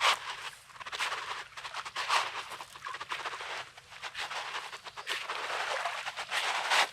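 Footsteps crunching on coarse, rocky beach sand at a walking pace, about two steps a second.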